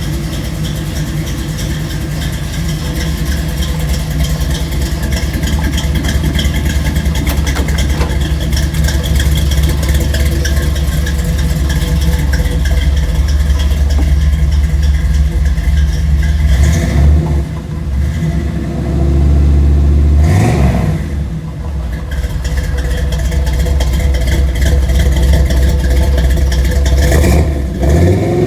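Car engine running steadily through its exhaust, then revved several times in the second half, the pitch rising and falling with each rev.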